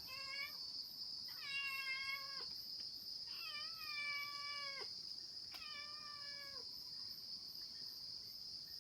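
A cat meowing about four times, long drawn-out calls that drop in pitch at the end, over a steady high trill of insects.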